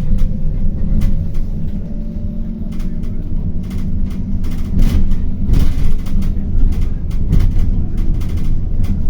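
City bus on the move: a steady low rumble of engine and tyres, with frequent small rattles and knocks from the bodywork.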